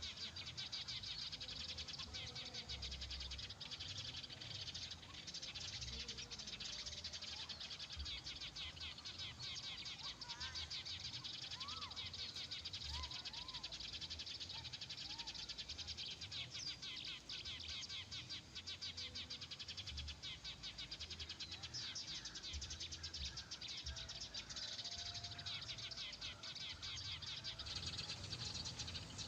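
Continuous dense, rapid high chirping of small animals, with a few short rising-and-falling calls about a third of the way in.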